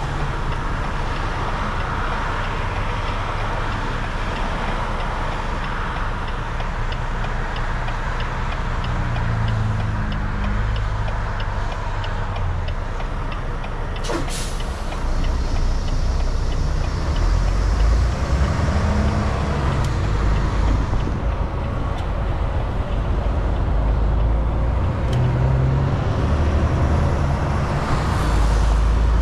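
Volvo VNL 760 semi truck's engine and tyre-on-road noise, a steady low drone while cruising that grows a little louder in the second half. There is one brief sharp sound about fourteen seconds in.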